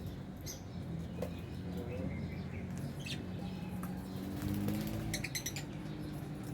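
Aviary lovebirds and budgies chirping and squeaking in short scattered calls, with a quick buzzy run of pulses about five seconds in, over a steady low hum.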